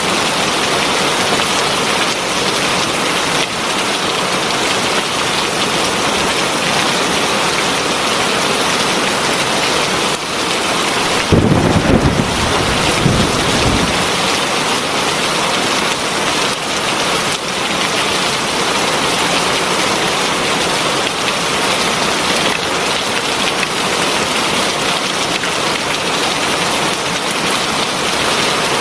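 Heavy rain falling steadily, with a brief low rumble of thunder about eleven seconds in that lasts a couple of seconds.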